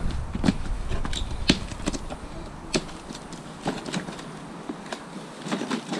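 Scattered clicks and knocks, with no rhythm, of bike parts and packaging being handled while the electric dirt bike is unboxed.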